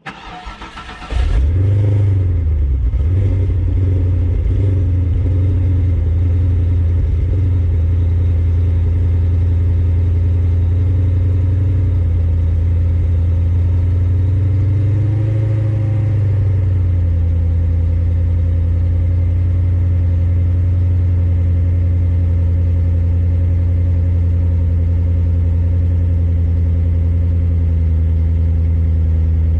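Cadillac STS-V's supercharged 4.4-litre Northstar V8, running on an E85 tune, starts about a second in and settles into a steady idle. Around halfway the idle briefly rises and falls back.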